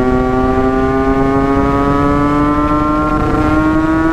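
Yamaha RX-King 135 cc two-stroke single-cylinder engine running at high revs under way, its note climbing slowly and steadily as the bike gathers speed, with wind noise underneath.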